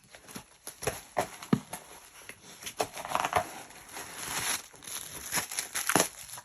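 A pitbull tearing open a cardboard box: irregular ripping and crinkling, with many short sharp scrapes and knocks.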